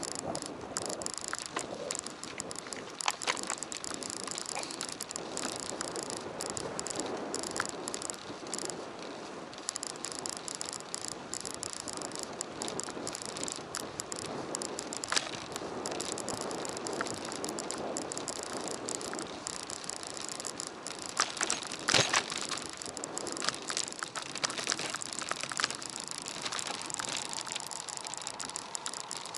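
A bicycle being ridden: steady tyre and road noise with frequent small rattles and clicks, and a few sharper knocks about three, fifteen and twenty-two seconds in.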